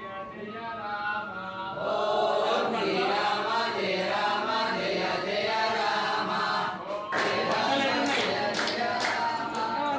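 A group of Hanuman devotees chanting a devotional bhajan together before their meal. About seven seconds in, a sharp beat of strikes joins the singing, roughly two a second.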